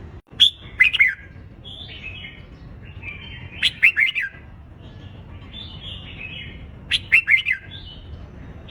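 Red-whiskered bulbuls singing competitive song: three loud, quick phrases about three seconds apart, with a fainter bird warbling between them.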